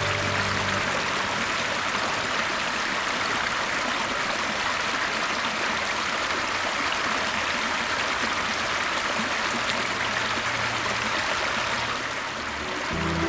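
Creek water running steadily, an even rushing babble.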